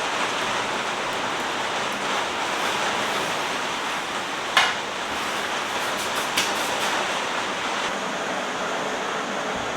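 Heavy rain falling in a steady rush, with a sharp tap about halfway through and a smaller one a couple of seconds later.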